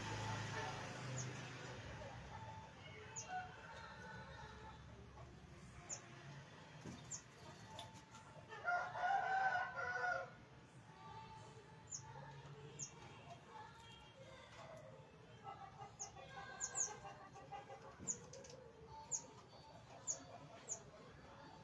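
A rooster crows once, a loud call of about a second and a half near the middle. Small birds chirp throughout, with short high notes.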